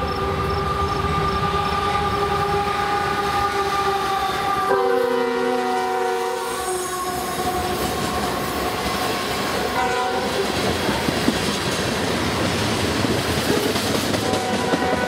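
Freight locomotive's multi-note air horn sounding two blasts, the second cut off about six and a half seconds in. Then the steady rumble and clickety-clack of covered hopper cars rolling past close by on the rails.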